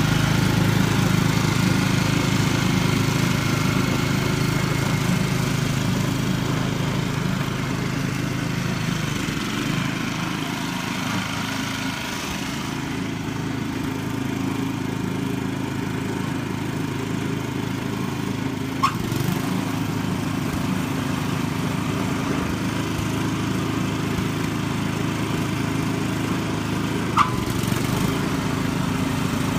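Small petrol engine running steadily, easing slightly about a third of the way in, with two short sharp clicks later on.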